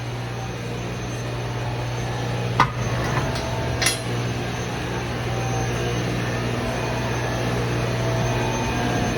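Steady low machine hum with two sharp metallic clinks, about two and a half and four seconds in, from metal clutch parts being handled during assembly of a truck clutch pressure plate.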